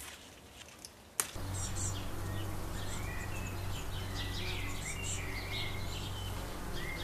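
Small birds chirping and whistling, many short calls and a few drawn-out whistles, over a steady low hum. A single sharp click about a second in, where the sound jumps up.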